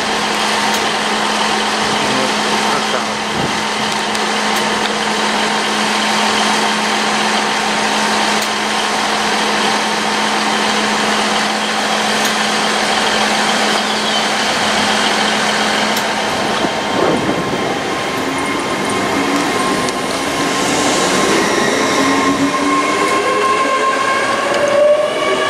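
Hitachi Intercity Express Train humming steadily at the platform, then pulling away, its traction whine rising in pitch through the last few seconds as it picks up speed.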